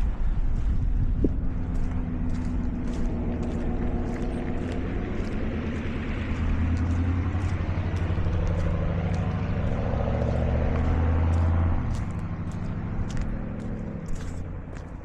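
A motor vehicle drives past, its engine drone building and then dropping away about twelve seconds in. Footsteps crunch in snow at about two steps a second throughout.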